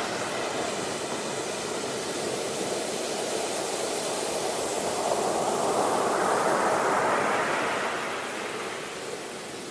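Ocean surf: a wave swells and washes in about halfway through, then recedes and fades near the end.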